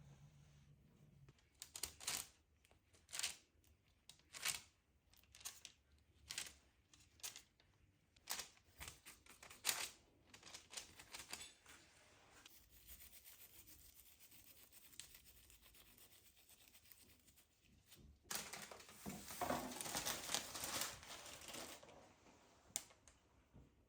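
A series of short rubbing strokes, about one a second, then a longer, louder rustling rub of about three seconds near the end.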